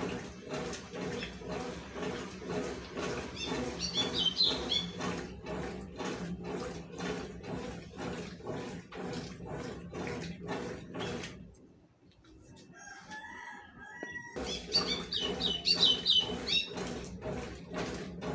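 Consul 12 kg top-loading washing machine agitating a load of towels, with even strokes about two a second. The agitation stops for about two seconds some twelve seconds in, then starts again. Two brief high-pitched sounds come about four and fifteen seconds in.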